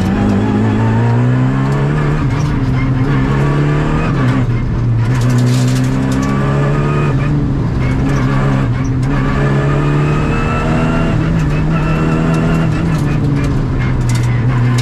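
Rally car engine heard from inside the cabin at full stage pace. The engine revs climb and then drop sharply several times as the driver shifts gear.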